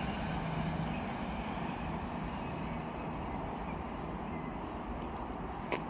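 Steady rumble of a CrossCountry Voyager diesel train running through at speed, easing off slightly as it draws away, with a brief click near the end.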